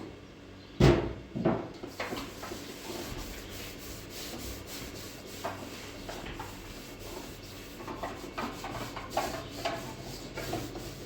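Repeated rubbing and scraping strokes on a hard surface, with a sharp knock about a second in.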